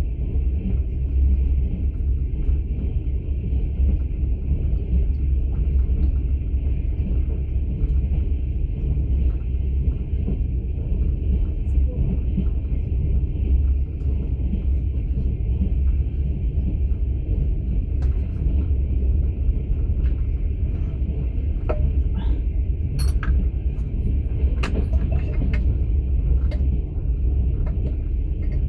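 Steady low rumble of a moving passenger train, heard from inside an open-plan sleeper carriage. Near the end come a few short sharp clicks or knocks.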